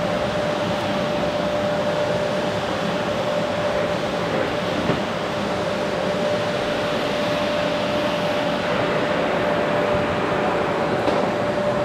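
Qilive vacuum cleaner running steadily while vacuuming a sofa: a constant rush of air with a steady motor whine.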